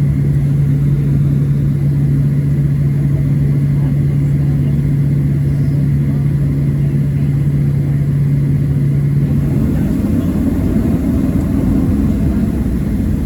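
Cabin noise of a Boeing 737-700 taxiing: a steady low rumble with a constant low hum that stops about ten seconds in, after which the rumble grows broader.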